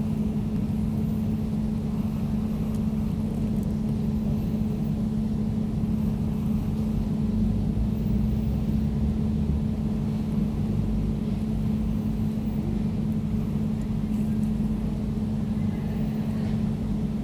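Air conditioner running steadily: a constant low hum with a clear steady tone over a rumbling rush of air.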